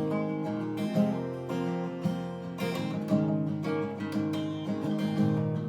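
Acoustic guitar strummed and picked in a steady folk rhythm, an instrumental passage with no singing.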